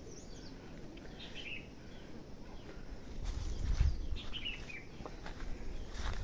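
Birds chirping in short falling phrases, several times over, with a low rumble and a few knocks from about three seconds in.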